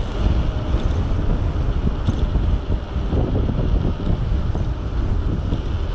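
Wind buffeting the microphone during a ride on an electric bike, a steady low rumble.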